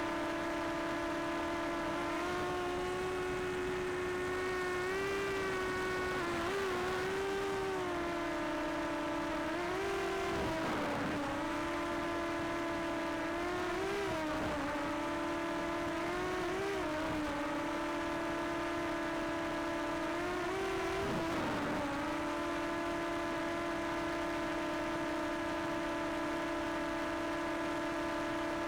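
Quadcopter drone motors and propellers humming steadily, the pitch rising and dipping several times as it manoeuvres, then settling into an even hover tone near the end.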